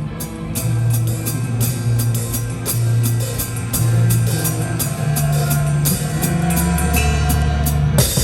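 Live metalcore band playing loud: distorted guitars and bass hold long, low sustained notes that change pitch every second or so and drop lower near the end, over a steady pattern of cymbal strokes. A hard drum and cymbal hit lands right at the end.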